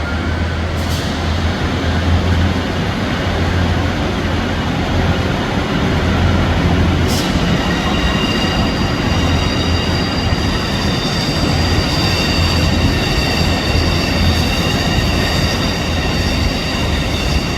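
Train running on rails with a steady low rumble. Just past halfway, a steady high-pitched wheel squeal sets in and grows. Two sharp clicks are heard, one about a second in and one just before the squeal starts.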